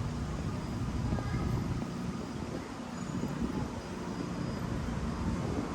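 Steady low rumble of city background noise, like distant traffic or a passing train, with no clear single event.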